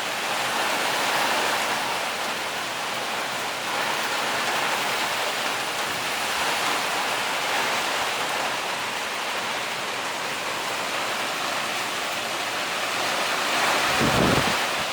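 Heavy storm rain pouring down in a steady rush. A brief low rumble comes in about a second before the end.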